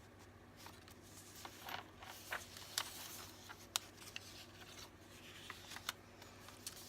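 Pages of a handmade paper junk journal being turned and handled: soft paper rustling with a few short, sharp clicks and taps.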